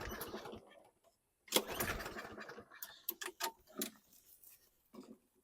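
Toro Recycler mower's 7.25 engine being pull-started on its recoil cord, turning over without catching. A pull at the start and another about a second and a half in are followed by a few light clicks. It does not fire even with starting fluid, which points away from fuel as the fault.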